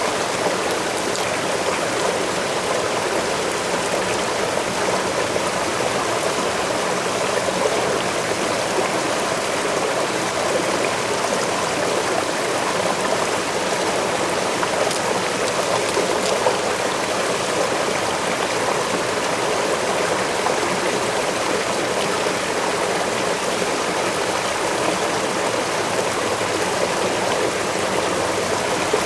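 Waterfall rushing steadily, an even wash of falling water with faint splashes scattered through it.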